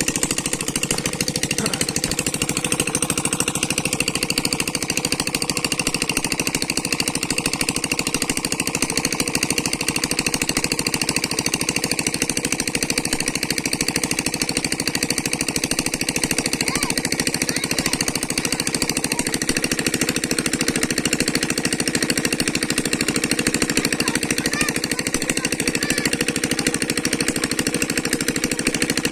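Small engine running steadily with a fast, even chug that does not change.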